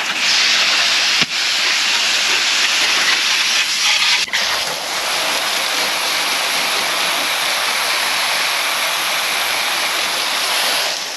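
A loud, steady hiss of rushing noise with no engine note in it, briefly dipping about four seconds in.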